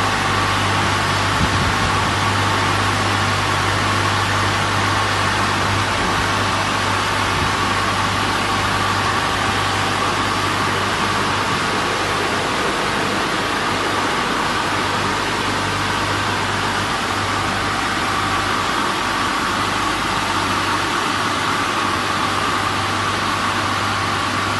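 W200D automatic car wash machine running steadily: an even rush of machine noise with a low motor hum and a steady whine, unchanging throughout.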